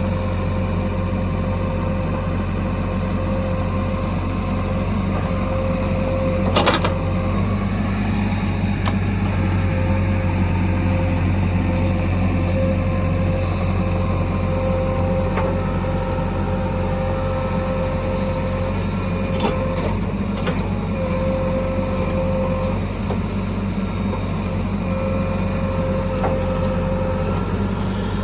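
Heavy diesel machinery of a JCB backhoe loader and tractor running steadily under work, with a steady whine that comes and goes. Several short knocks, the loudest about seven seconds in.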